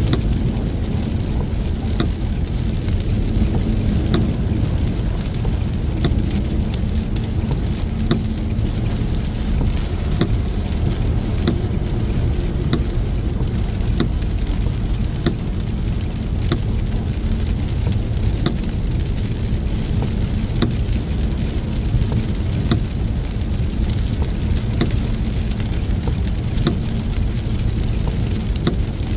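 Heavy rain falling on a moving car, over a steady low rumble of road and engine, with many scattered sharp taps of drops.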